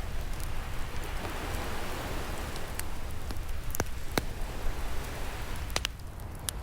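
An ocean wave washing in and drawing back, swelling then fading, over a low rumble of surf, with a few sharp pops and crackles from a wood fire.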